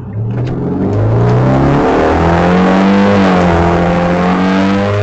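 Car engine running with its downpipe removed, so the exhaust is open right behind the engine, accelerating hard. The revs climb over about the first two seconds, then hold high with a very loud, harsh note.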